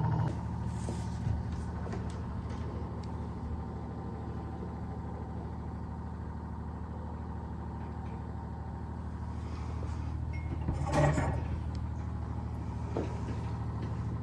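Steady low electric hum of a running household appliance, with a few light clicks and a short clatter about eleven seconds in.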